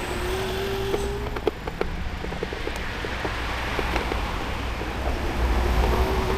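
E-bike's electric motor whining in one thin tone that rises slowly in pitch; it fades about a second in and comes back near the end. Under it are a steady low wind rumble on the microphone and scattered clicks and rattles from the bike rolling over the paving.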